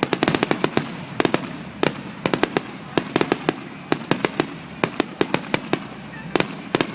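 Fireworks display: a rapid barrage of sharp bangs and crackling reports, several a second, often in tight clusters.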